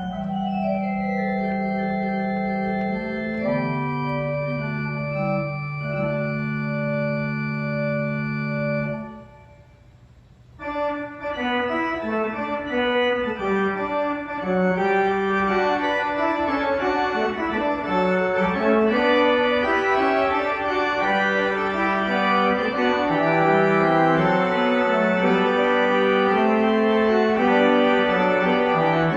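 Organ music: held chords for about nine seconds, a brief near-pause, then a busier passage of moving notes over sustained bass.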